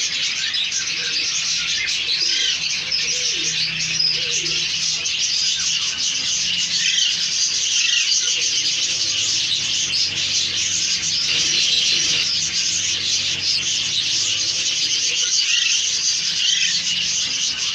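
Young Alexandrine parrots chirping and chattering nonstop, many short high calls overlapping, over a faint steady low hum.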